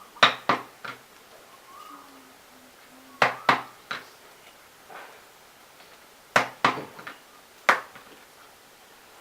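Sharp hard clicks or taps in three quick clusters of about three each, roughly three seconds apart.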